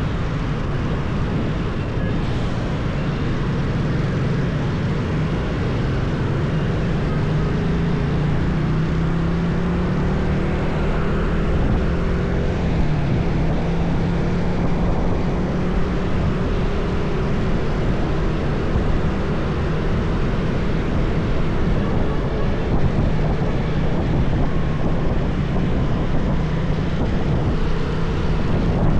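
Motorbike engine running steadily under way, over a steady rush of noise. The engine note wavers slightly about a third of the way through.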